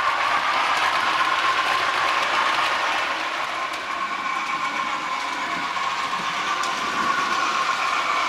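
Model railway train running on the layout track: a steady electric motor whir with wheels rolling on the rails, fading a little in the middle and louder again near the end as the train moves around the layout.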